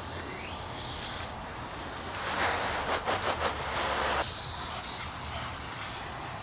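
Spray hissing onto a dirt bike during cleaning. It comes in uneven spells: a louder rush with a few clicks about two seconds in, then a thinner high hiss after about four seconds.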